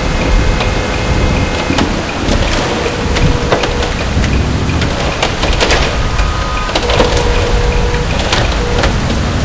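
Heavy rain and hail pelting a car, a steady loud wash of rain broken by many sharp ticks of hailstones striking.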